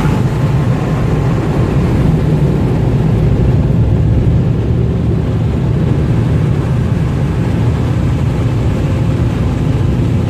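Touchless car wash's high-powered air dryers blowing on the vehicle: a loud, steady rush of air with a deep rumble. They are very strong dryers.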